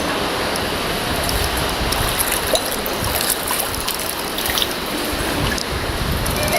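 Creek water flowing and splashing: a steady rushing hiss with a few small clicks and knocks over it.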